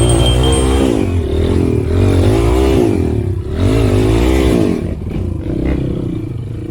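Motorcycle engine revving up and down over and over, its pitch rising and falling about once a second, then easing off and dropping lower near the end.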